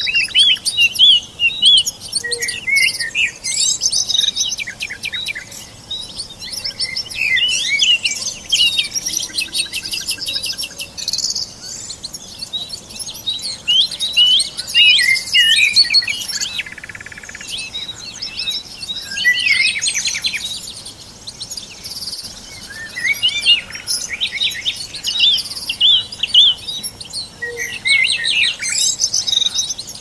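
Several songbirds chirping and singing in quick, overlapping phrases, with a couple of short lulls.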